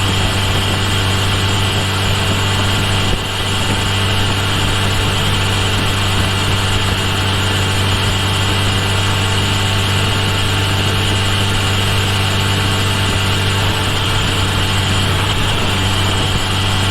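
Kawasaki Ninja H2 SX's supercharged inline-four engine running at a steady engine speed, with a brief dip in loudness about three seconds in.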